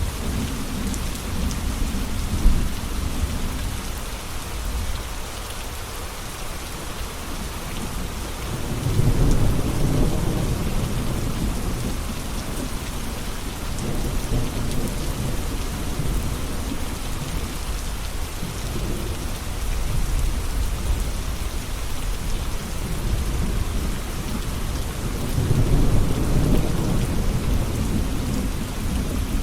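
Steady rain falling, with low rolls of thunder swelling about nine seconds in and again near the end.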